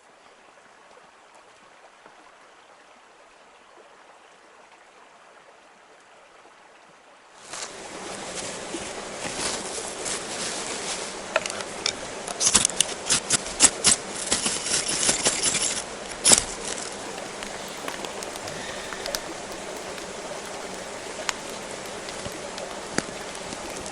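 Campfire being lit: a faint hiss, then from about seven seconds in a louder steady rush with a flurry of sharp crackles and snaps as the kindling catches, thickest around the middle.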